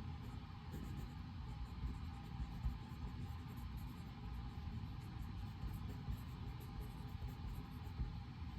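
Study-room white-noise ambience: a steady low rumble of room and ventilation-like noise, with faint high scratchy flickers now and then.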